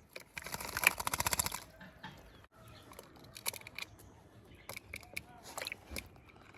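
A pet myna: a rapid rattling burst of clicks lasting a little over a second, then scattered single clicks and taps.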